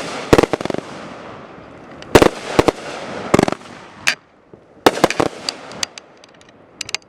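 Consumer fireworks going off: a rapid string of sharp bangs and crackles, several in quick clusters, thinning out toward the end.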